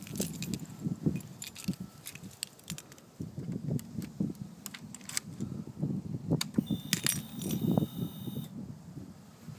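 Keys jangling and clicking as the ignition key of a Honda CRF250L is handled before a cold start. About two-thirds in comes a steady high whine lasting about two seconds.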